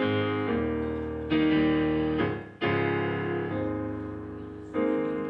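Piano playing a slow introduction of sustained chords, each struck and left to ring and fade before the next, about every second or so.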